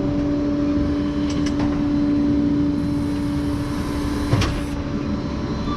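A steady mechanical drone with a low rumble, and a single sharp knock about four seconds in.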